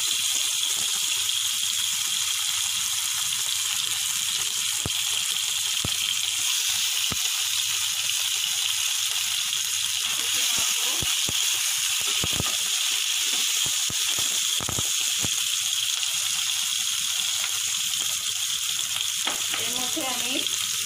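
Chopped tomatoes frying in hot mustard oil in a nonstick pan: a steady sizzle, with scattered sharp clicks from time to time.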